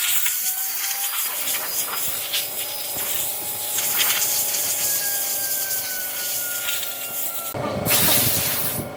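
Wood being power-sanded: a steady abrasive rubbing with a faint motor whine that drifts in pitch. Near the end a louder rush of noise lasts just over a second.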